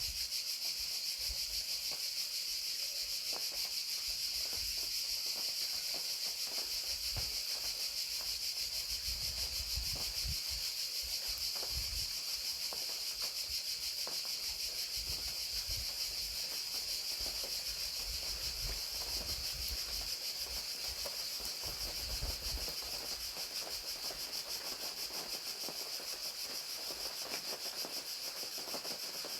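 A steady chorus of crickets trilling without a break, over an even hiss of falling rain, with soft low rumbles now and then.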